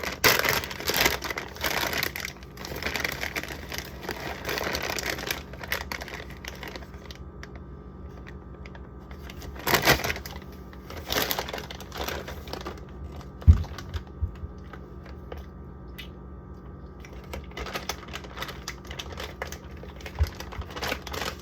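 Plastic shredded-cheese bags crinkling and rustling as they are handled, dense for the first few seconds and then in scattered bursts with small clicks and taps. A single low thump comes about halfway through.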